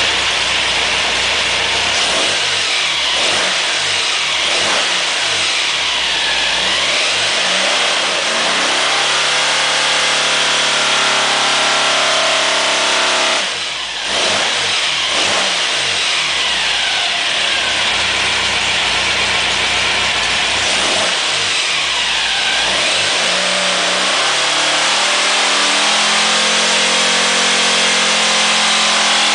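Air-cooled VW 2275cc stroker engine on a water-brake dyno making two full-throttle pulls, engine speed climbing steadily under load. The first pull cuts off suddenly about 13 seconds in; the engine drops back, then climbs again through the last six seconds.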